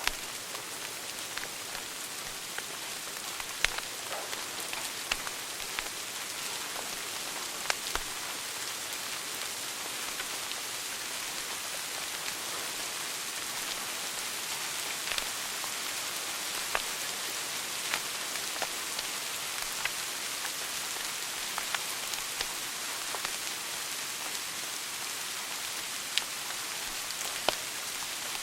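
Wood fire burning in a fireplace: a steady hiss with scattered sharp crackles and pops every second or two.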